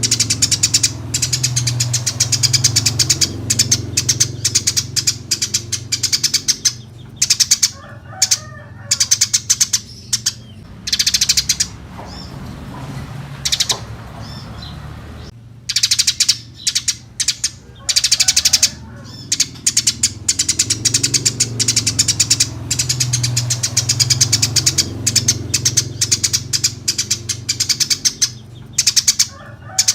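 Eurasian tree sparrows chirping fast and without letup, a dense chattering of short high chirps, breaking off for about three seconds near the middle before starting again.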